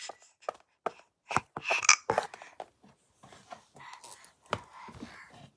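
Scattered light knocks and clicks of small objects being handled, with a brief stretch of rustling about a second and a half in.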